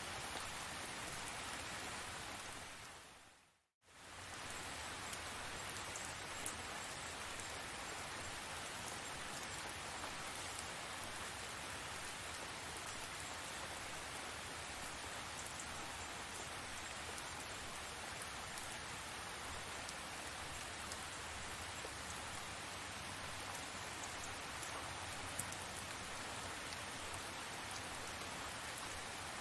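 Steady rain falling, an even hiss with scattered sharp drop ticks. About three and a half seconds in, the rain fades out to silence for a moment and comes straight back at full level.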